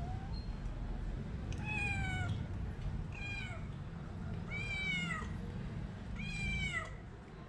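Domestic cat meowing four times, each meow a short call that falls in pitch at its end, over a steady low background rumble.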